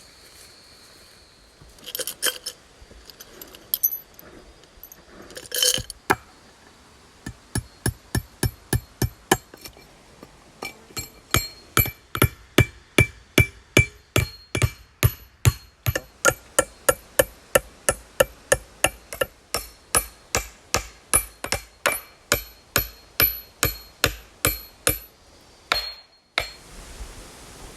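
Repeated hammer-like strikes, about two to three a second, each with a short metallic ring. A few scattered knocks come first, then a long steady run of strikes that cuts off near the end.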